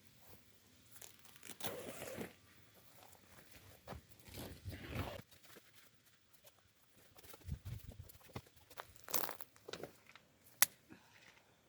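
Intermittent rustling and crinkling handling noises, in several separate bursts, with one sharp click near the end.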